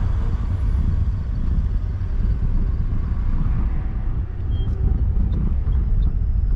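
Car driving in traffic: a steady low rumble of engine and road noise.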